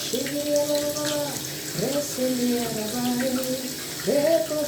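A voice singing long wordless held notes, each swooping up into the pitch, about three notes, with a steady hiss behind.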